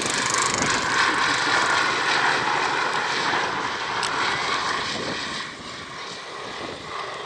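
An aircraft flying past, its engine noise a loud, steady rush that fades away about five and a half seconds in.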